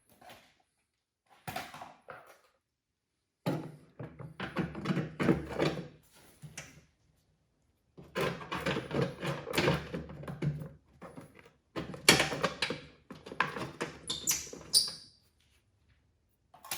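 Metal parts of a John Deere LA105 mower deck handled as the belt guards are put back in place: clatter and quick clicks in three bursts of a few seconds each, with silent gaps between.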